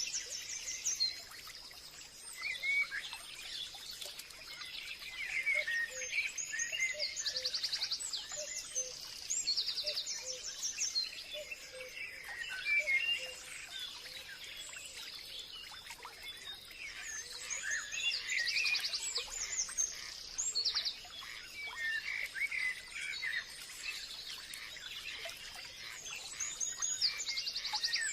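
Forest birds chirping and calling, several at once, with short rapid high trills that come back every few seconds over a faint steady high tone.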